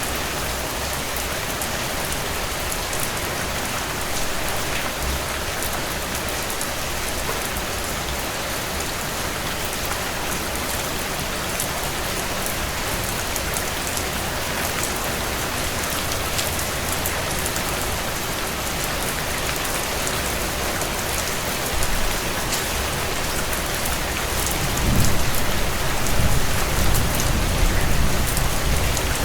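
Heavy rain drumming steadily on a tin roof: a dense hiss dotted with sharp drop ticks. Near the end a low rumble swells beneath it.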